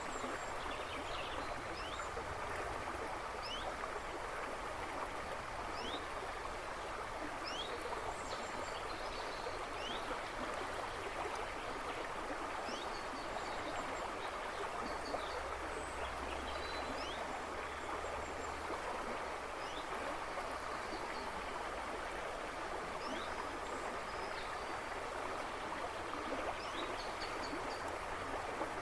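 A river rushing and babbling steadily, with birds chirping in the woods behind it: many short, quick rising chirps, about one every second or so.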